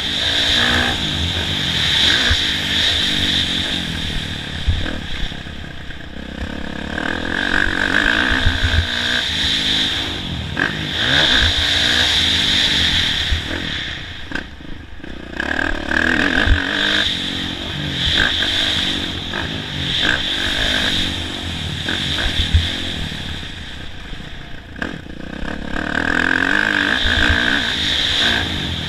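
Kawasaki KX450F four-stroke single-cylinder dirt bike engine ridden hard around a motocross track. It revs up and backs off again and again, swelling every few seconds, with scattered low knocks and clattering from the bike over the bumps.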